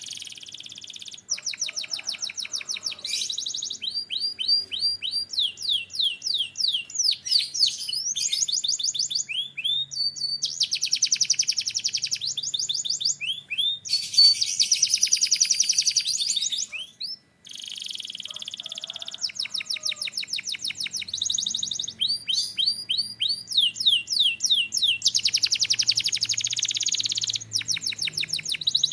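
Canary singing a long continuous song of rapidly repeated notes. Its rolling trills change pace from one phrase to the next, with a brief break about seventeen seconds in.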